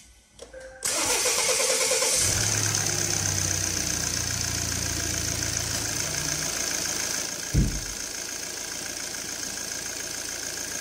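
Volvo 2.0-litre four-cylinder diesel (D3) cranked and catching about a second in. It starts easily after its intake manifold, EGR valve and throttle body have been cleaned. It runs louder for about five seconds, then settles to a quieter steady idle, with a short thump just as it settles.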